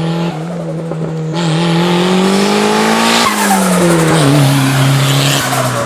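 Turbocharged Honda Civic D16Y8 1.6-litre four-cylinder engine revving hard while the tires spin and squeal in a burnout. The engine's pitch climbs for about three seconds, then falls away.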